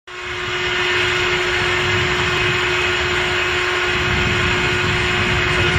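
Rolls-Royce Griffon Mk58 V12 aero engine running on its first start after about 30 years standing. The sound comes in suddenly, swells within half a second, then holds a loud, steady run with a constant hum through it.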